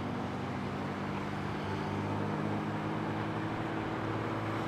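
Honda Gold Wing motorcycle riding at a steady pace in the rain: a steady engine hum under an even hiss of wind and wet road.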